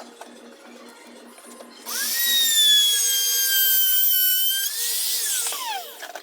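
Electric drill spun up about two seconds in, held at a steady high whine for a few seconds, then released so the pitch falls away as it winds down.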